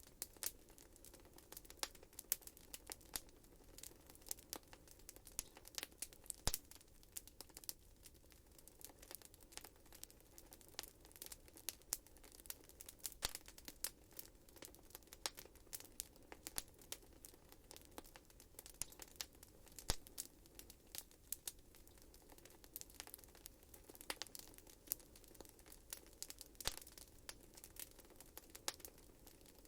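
Wood fire burning in a fireplace, crackling with rapid, irregular sharp snaps and pops over a faint steady background.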